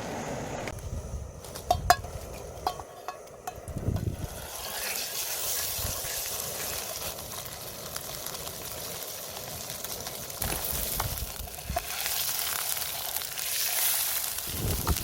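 Food frying in hot fat, a steady sizzle that sets in about four seconds in and grows louder near the end, after a few sharp clicks and knocks of cooking utensils.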